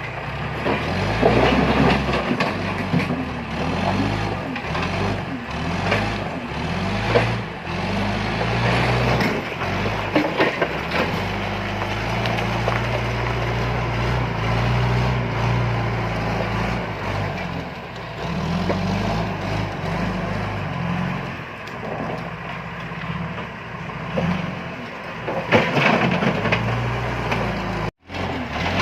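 John Deere 310E backhoe loader's diesel engine running under load, its pitch rising and falling as the hydraulics work, with several loud clattering knocks of stones being scooped and dumped.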